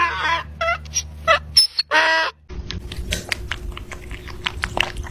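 Domestic fowl calling: a few short squawks in the first two seconds, the last one the loudest, then a run of sharp clicks and taps.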